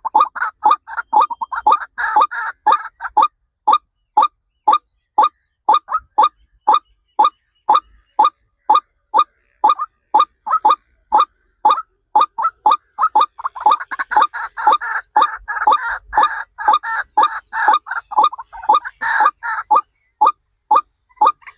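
Birds calling: a fast, steady run of short, sharp calls, about two or three a second. The calling thickens into overlapping calls at the start and again for several seconds past the middle.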